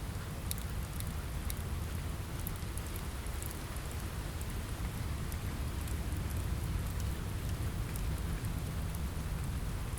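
Steady rain falling on a window, with a constant low rumble underneath and scattered small sharp ticks.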